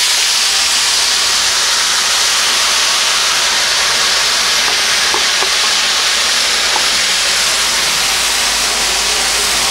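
Chopped tomatoes, onions and peppers sizzling in hot oil in a frying pan just after being tipped in: a loud, steady hiss that starts suddenly.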